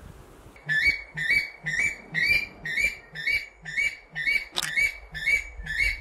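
A bird calling in a fast, regular series of about a dozen short, high notes, roughly two a second, starting just under a second in.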